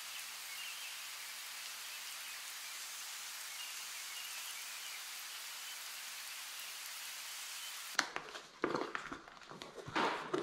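Steady hiss of light rain. About eight seconds in it cuts to close handling noise: a series of sharp knocks and clicks with rustling.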